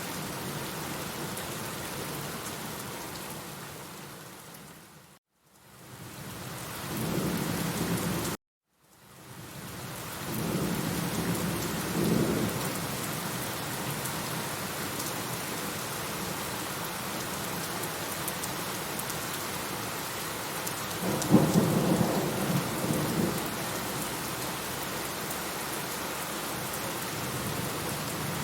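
Steady rain with rolling thunder rumbles, the loudest about twenty seconds in. The sound cuts to brief silence twice within the first nine seconds.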